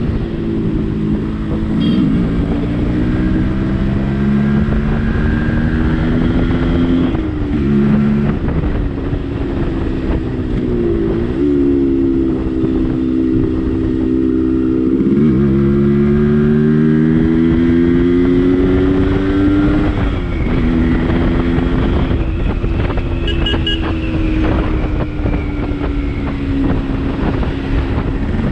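Yamaha RX-135's single-cylinder two-stroke engine pulling hard under way, its pitch rising and dropping sharply at each gearshift, about five times, with road and wind noise underneath.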